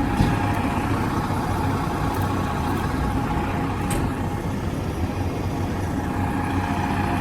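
Steady low rumble of an idling motor vehicle engine, with a faint steady tone above it and a few light clicks.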